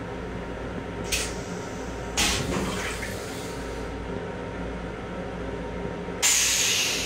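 Steady low rumble and hum of an M7 railcar, heard inside its small restroom. Over it come hissing bursts: a short one about a second in, a longer one that fades out about two seconds in, and a louder hiss near the end that fades slowly.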